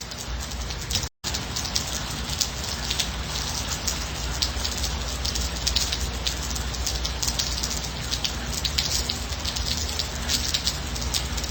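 Steady gentle rain: a continuous hiss packed with many small, crisp drop impacts over a low rumble. It cuts out completely for an instant about a second in.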